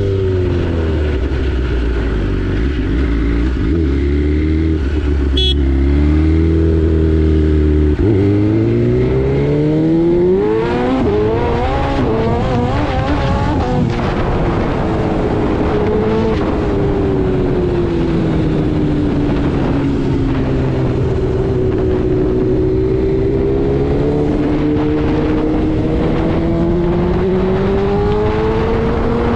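BMW S 1000 RR inline-four engine running. It holds a low, steady pitch for the first eight seconds, then revs up sharply over the next five, drops back, and rises and falls gently as the throttle is opened and eased.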